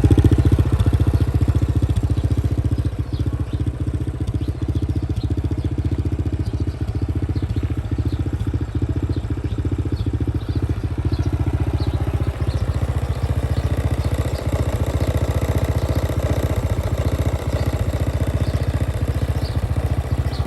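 Honda Dream 100 (C100N) motorcycle's stock single-cylinder four-stroke engine idling steadily with an even, dry exhaust beat, slightly louder for the first couple of seconds.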